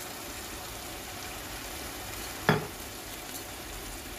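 Chopped onions, garlic and green chillies sizzling in oil in a metal kadai, a steady frying hiss. A single sharp knock rings out about two and a half seconds in.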